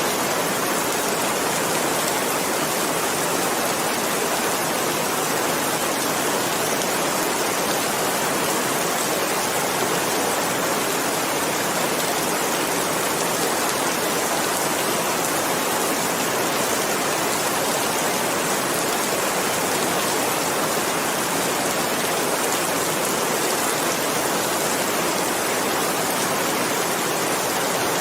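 Steady rain falling, a dense even hiss that holds the same level throughout, with no single drops or thunder standing out.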